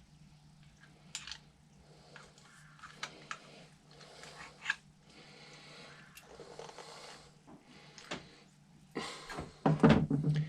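Small metal carburetor parts being handled and fitted on a workbench: scattered light clicks and scrapes over a steady low hum, then a louder metallic clatter near the end.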